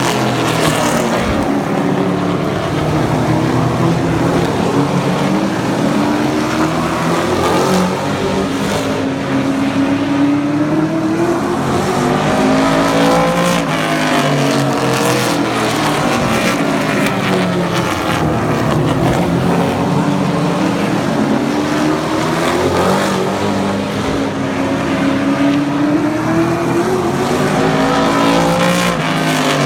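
Super Truck race trucks' engines running at racing speed on a short oval. Their pitch rises and falls again and again every several seconds as they accelerate down the straights and lift for the turns.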